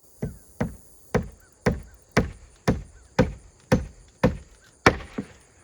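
Hammer driving nails into roof plywood: about a dozen even blows, roughly two a second.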